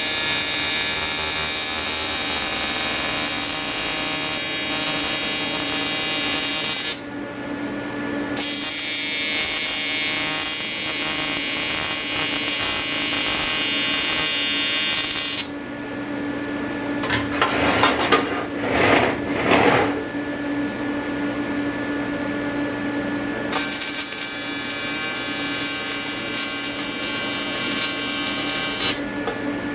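AC square-wave TIG welding arc buzzing on an aluminium intercooler, an Everlast 325EXT running at 100 to 150 Hz AC frequency. The arc runs in three long stretches of several seconds with short breaks between, and a brief rougher, scratchier burst in the middle break.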